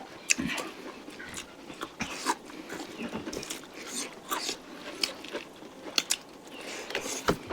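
People chewing and biting into chicken curry: wet mouth smacks and crunches coming irregularly, several a second.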